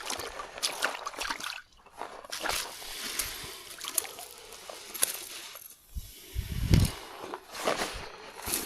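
Water sloshing and splashing, with scattered small knocks and clicks and a brief low thump about two-thirds of the way through.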